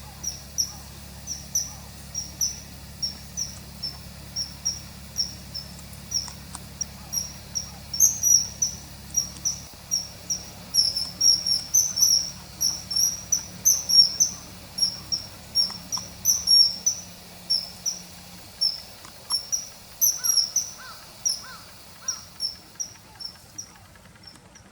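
Common kingfisher calling: a long run of short, sharp, high-pitched notes, about two or three a second, from a dubbed-in field-guide recording. The calls stop about a second before the end.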